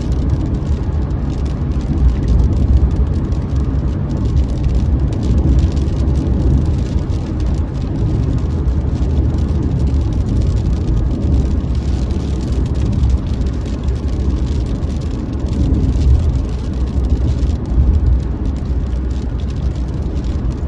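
Steady low rumble of a motor vehicle on the move, with engine and road noise.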